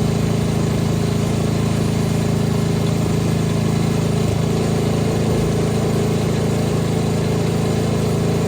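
Snowblower engine running steadily under load.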